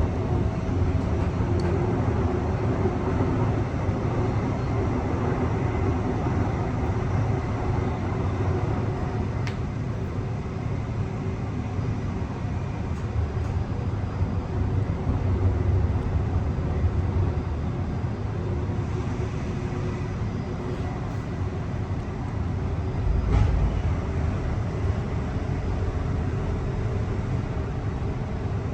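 Onboard ride noise of a Mariyung (D set) electric multiple unit under way: a steady rumble of wheels on track with a faint steady tone on top, and one heavier low thump late on.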